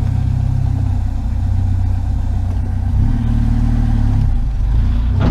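Vehicle engine idling with a steady low hum; the hum shifts in pitch about three seconds in.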